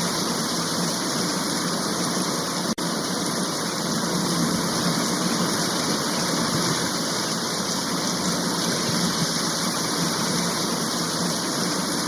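Large volume of water rushing and falling at Srisailam Dam: a steady, even rush of water, with a split-second dropout about three seconds in.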